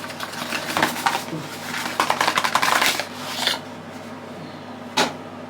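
Rustling and clicking of skincare product packaging being handled, busiest for the first three seconds, with one sharp click about five seconds in. A bathroom extractor fan hums steadily underneath.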